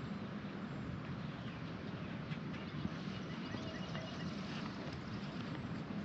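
Steady outdoor background noise with a few faint, short, high chirps in the middle.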